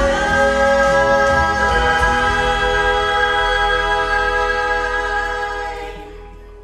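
Gospel vocal group singing the last word of the song, "thine", as one long held chord that fades away near the end.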